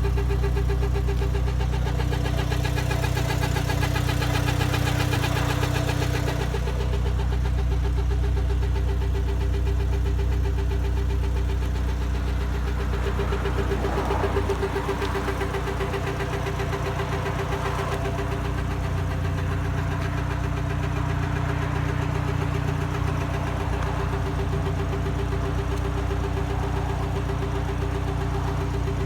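Mk6 Volkswagen Jetta 2.0 non-turbo four-cylinder engine idling on a cold start, with a steady pitched drone over the engine note. This is the weird noise that comes only after the car has sat overnight and goes away after about a minute of running. A hiss over the top fades out about six seconds in.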